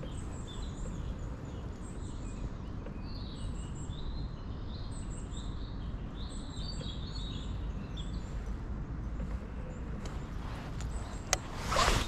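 Small birds in the lakeside woods singing in quick runs of short, high chirps and twitters, over a steady low background rumble. A few sharp clicks come near the end.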